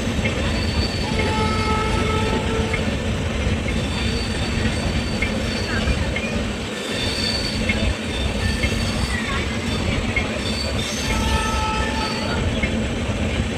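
A train running on the rails: a steady, loud low rumble of wheels and carriages, with brief high-pitched wheel squeals that come and go, around a second in and again near the end.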